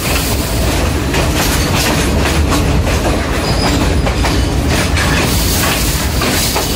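A railway carriage running on the track, heard from an open doorway: a loud steady rumble of the wheels on the rails, broken by irregular clicks and knocks as the wheels pass over rail joints.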